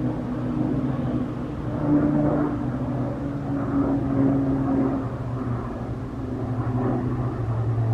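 Steady low drone of PZL-130 Orlik turboprop trainers' engines and propellers in flight, holding an even pitch.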